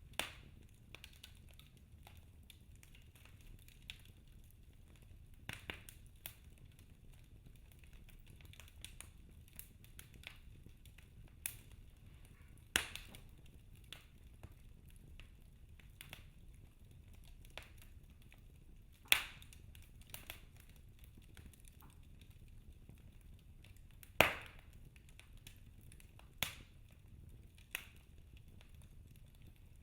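Logs burning in a fireplace and crackling: irregular sharp pops and snaps, a few of them much louder, over a faint low steady rush of the fire.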